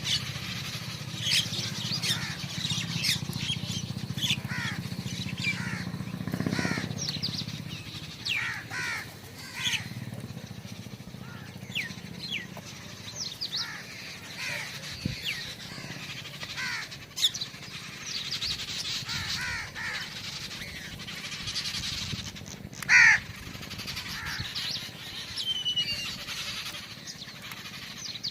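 Several wild birds chirping and calling over one another in many short, repeated calls, with one loud harsh call late on.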